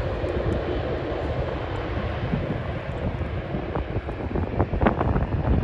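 Jet airliner engines rumbling steadily at a distance, mixed with wind buffeting the microphone, with a few light clicks near the end.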